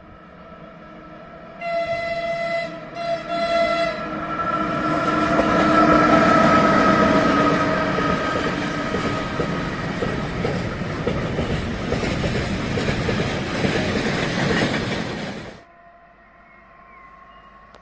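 Train horn sounding about two seconds in, a blast of a couple of seconds broken twice, as a driver's greeting. It is followed by the train passing close, with loud rushing and rail noise for about ten seconds that stops abruptly.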